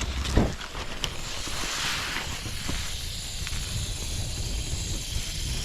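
MSR camp stove burner used as a blowtorch, running with a steady hiss over a low rumble while it is held to a brush pile to light it; a couple of faint clicks near the start.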